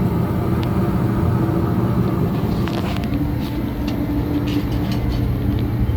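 A 1977 Chevrolet El Camino's carbureted engine idling steadily through dual side-exit exhausts, an even low rumble with a few faint clicks.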